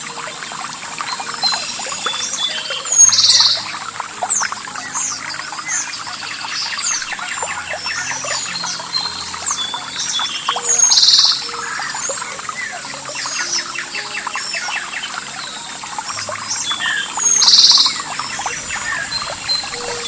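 Many songbirds chirping and singing in short rising and falling notes. One louder buzzy call comes three times, a few seconds apart, and is the loudest sound each time.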